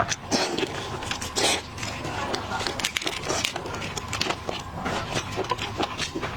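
Close-miked eating sounds: chewing, with frequent sharp clicks and crackles from shellfish shells being handled and broken.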